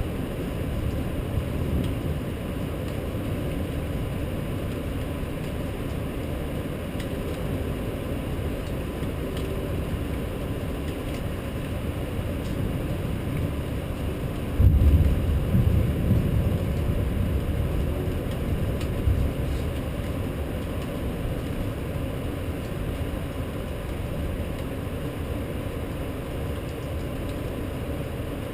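Steady low rumble of a city in a rainstorm. About halfway through, a roll of thunder swells suddenly and fades away over several seconds.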